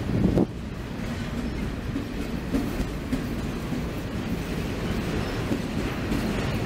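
Covered grain hopper cars of a freight train rolling past: a steady rumble and rattle of steel wheels on the rails, with a louder knock about half a second in.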